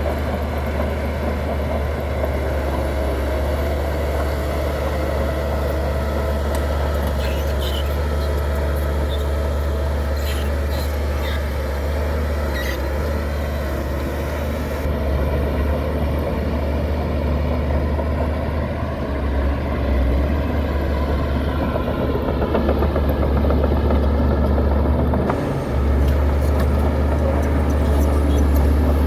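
Bulldozer's diesel engine running steadily under work, with a few sharp clicks in the middle; after a brief dip near the end it runs a little louder.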